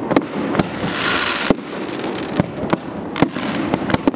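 Fireworks going off: irregular sharp bangs and pops over a steady crackling hiss, with a louder hissing burst about a second in.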